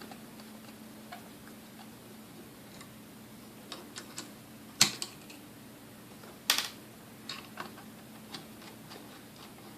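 Scattered light clicks and taps of tools and small metal parts being handled as a stand mixer is taken apart, with two sharper clacks about five and six and a half seconds in, over a faint steady hum.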